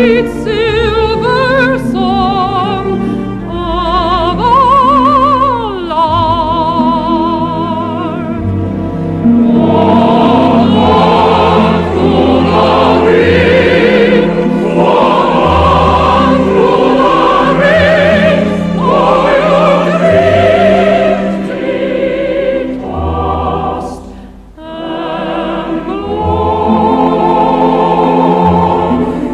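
Music: operatic singing with wide vibrato over orchestral accompaniment, growing fuller with massed, choir-like voices from about ten seconds in. There is a brief lull near the end.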